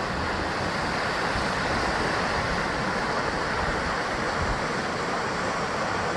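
Sea waves washing against a rocky basalt-column shoreline: a continuous rush of surf that swells a little a couple of seconds in, with a low rumble beneath it.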